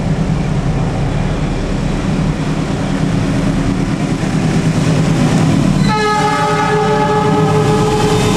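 Gajayana express train with stainless-steel coaches running by with a steady rumble and wheel noise. About six seconds in, its locomotive horn sounds one long, steady chord.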